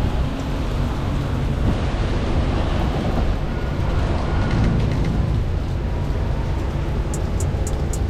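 Wind buffeting a GoPro's microphone in the rain: a loud, steady low rumble under an even hiss of rain and street noise. Near the end comes a run of quick, light ticks.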